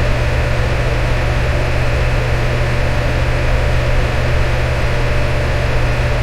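Electric fan running steadily: an even whooshing noise with a low, constant hum underneath.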